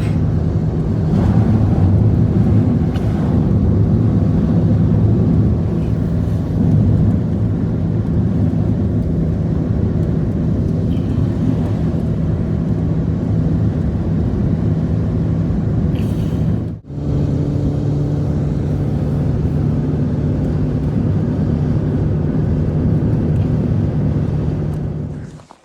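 A motor vehicle's engine running with a steady drone at an even pitch. It breaks off briefly about seventeen seconds in and resumes at a slightly different pitch.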